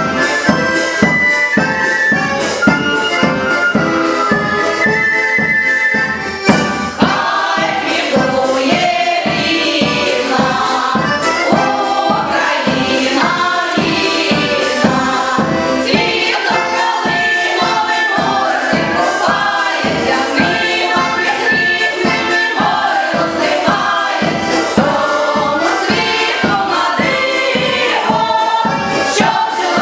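Choir singing over instrumental accompaniment with a steady beat; the music changes about seven seconds in.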